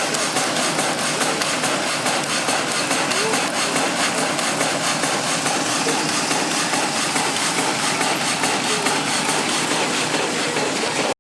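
Steam-driven cutting machine at work, with a steady, dense mechanical clatter.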